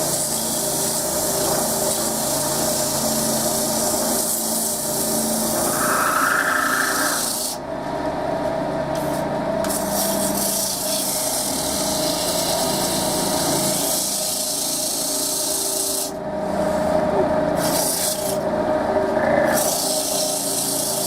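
Wood lathe running while very fine wet-and-dry sandpaper is held against the spinning wooden cup: a steady rubbing hiss over the lathe's hum, warming the wood with friction. The rubbing lifts away briefly a couple of times, around eight seconds in and again near the end.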